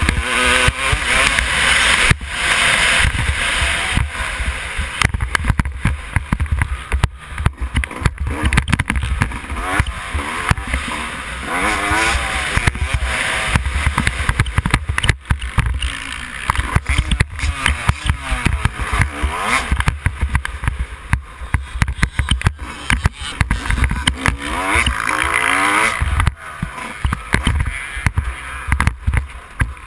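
Yamaha YZ250 two-stroke motocross bike engine revving up and down again and again as it is ridden hard, with many sharp knocks and a constant low rumble of wind.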